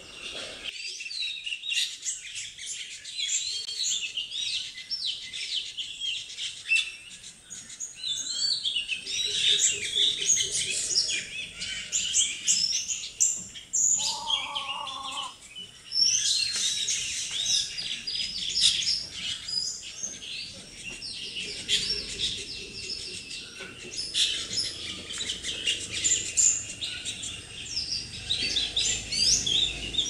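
Birds chirping and calling: many quick, high chirps overlapping almost without a break, with a short lower-pitched call about halfway through.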